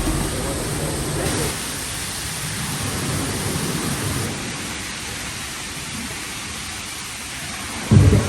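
Waterfall making a steady, even rush of falling water. Music comes in suddenly near the end.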